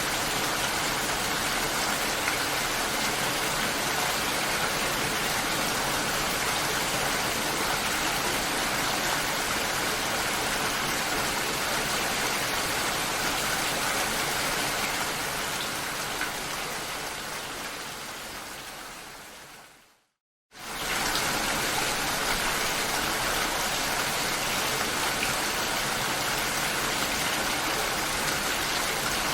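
Steady rainfall, an even hiss of falling rain. About two-thirds of the way through it fades away over several seconds to a moment of silence, then comes back abruptly at full level.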